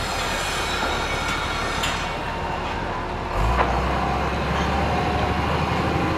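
Construction-site noise with a heavy truck's engine. A few sharp clicks come early. About halfway through, a knock is followed by a louder, steady low engine rumble that keeps going.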